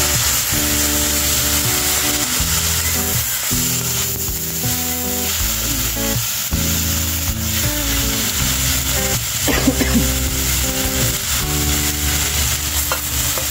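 Grated beetroot and carrot sizzling as they fry in a steel wok, stirred with a metal spatula, under background music with sustained chords that change every second or two.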